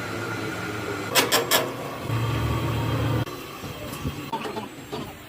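Workshop machinery running with a steady low hum, louder for about a second in the middle, with three quick sharp knocks about a second in and a few lighter clicks near the end.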